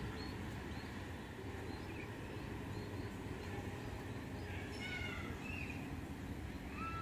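Low steady rumble of a passenger train running away into the distance. A bird chirps several times about five seconds in and once more near the end.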